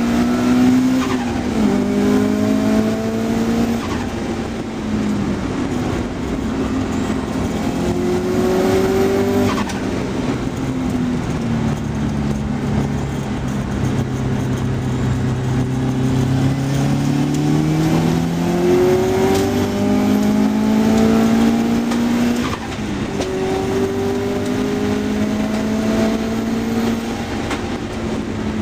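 Car engine being driven hard on a race circuit: its note repeatedly climbs in pitch, drops at each gear change and eases off for corners, over steady wind and tyre noise.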